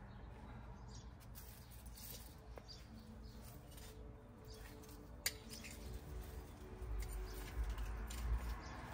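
Faint outdoor ambience with birds calling in the background, and a single sharp click about five seconds in. Low rumbling noise rises in the last couple of seconds.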